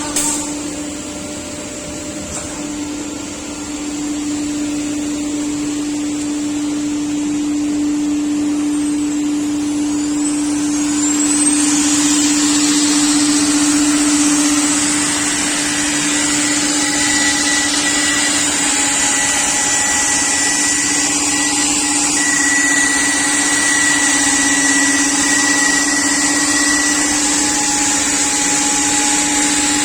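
CNC router for cutting panels, running steadily with a constant hum and a hissing, vacuum-like noise. The noise gets louder about twelve seconds in.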